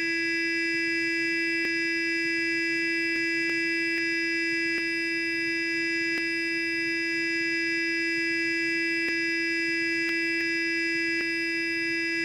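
Sonic electric toothbrush running continuously: a steady, unchanging buzzing hum at one pitch, with a few faint ticks.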